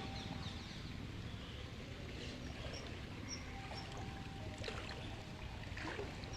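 Steady rushing of the flooding river's water, an even wash of noise with no clear rhythm.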